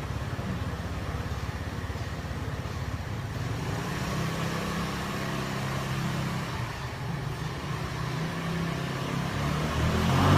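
Motorcycle engine running steadily, getting louder near the end.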